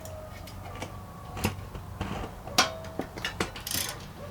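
Scattered metallic clicks and clinks of hand tools and small parts against metal while unbolting a small engine's carburetor. The two loudest knocks come about a second and a half and two and a half seconds in, with lighter taps and a brief rattle near the end.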